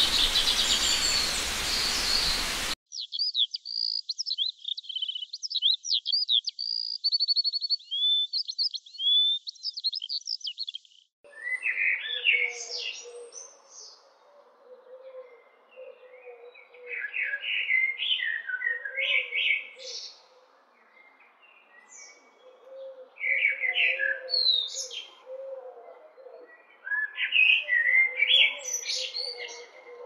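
Birds chirping and trilling in a run of separate recordings that change abruptly about 3 s and 11 s in. The first has a loud hiss behind the chirps, the second is rapid high trills, and the last is scattered chirping phrases with pauses between them.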